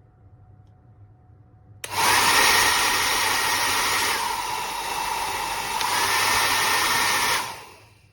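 Drhob 1300W folding hair dryer switched on with a click a little under two seconds in and blowing steadily. It drops to a lower, quieter blow for about a second and a half in the middle, returns to full strength, and is switched off near the end, its fan running down.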